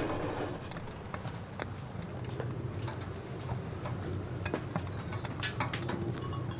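Irregular light ticks and pattering over a low steady hum.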